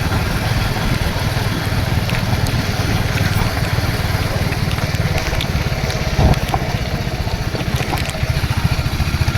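Royal Enfield Hunter 350's single-cylinder engine running with a steady, rapid exhaust thump. There is a brief low knock about six seconds in, and the beat grows more pronounced near the end.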